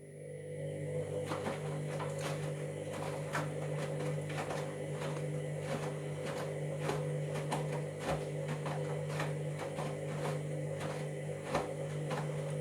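Washing machine motor turning the drum through a wash tumble: a steady hum with a higher tone above it and a regular ticking about twice a second, cutting off suddenly at the end. The owner presents these noises as a sign of a drum and motor problem.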